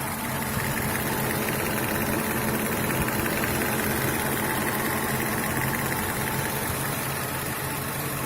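BMW M60B40 4.0-litre V8 idling steadily with a fast, regular knocking or tapping, which the owner places in the left cylinder head.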